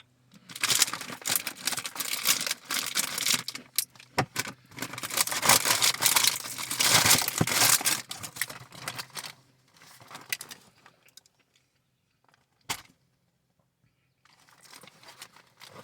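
Crinkly cookie wrapper packaging rustling and crackling as it is handled and forced closed, in dense bursts for about ten seconds, then mostly quiet with a single sharp click before the rustling starts again near the end.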